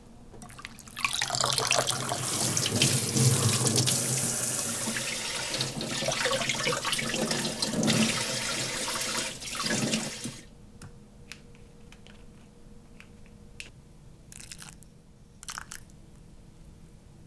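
Water running from a tap into a sink for about nine seconds, then shut off abruptly. A few light clicks and knocks follow.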